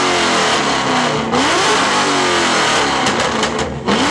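Car engine being revved hard and repeatedly: each rev climbs quickly and then winds down slowly, with loud exhaust noise throughout.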